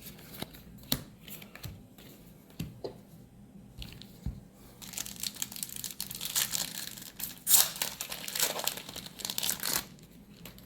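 A few light taps of handling, then about five seconds of crinkling packaging, loudest around the middle, as a wrapper or sleeve is handled and crumpled.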